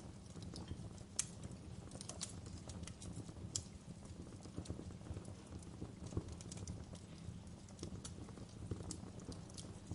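Wood fire crackling in a fireplace: irregular sharp pops and snaps over a steady low rumble of the burning logs, with a louder pop about a second in.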